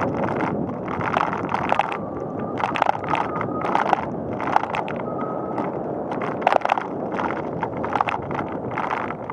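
Bicycle ride noise: wind buffeting the microphone over the rattle and clicking of a bicycle rolling on paved path. A faint thin tone comes in briefly twice.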